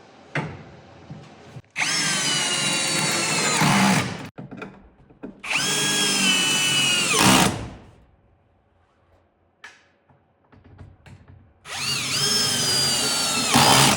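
Power drill driving 5/16-inch lag screws through a garage-door flag bracket into the wooden door frame: three runs of two to three seconds each, the motor's whine dipping slightly as each screw draws tight.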